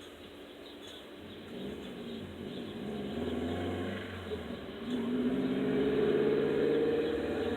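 A motor vehicle passing, its engine growing louder from about five seconds in, with faint high chirps from the nestlings.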